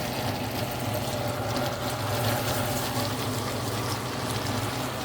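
Chicken pieces deep-frying in hot oil, a steady sizzle with fine crackling.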